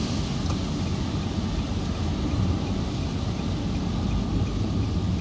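Steady storm wind with a low rumble, unchanging throughout.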